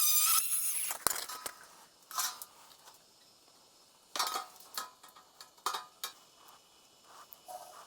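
A high-pitched power-tool whir cuts off about a second in. It is followed by scattered metallic clinks and knocks, like metal parts or tools being handled and set down on a workbench.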